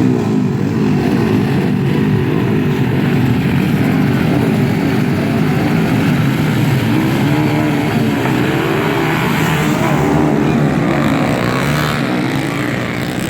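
Motocross dirt bike engines revving, their pitch rising and falling over and over as the bikes race.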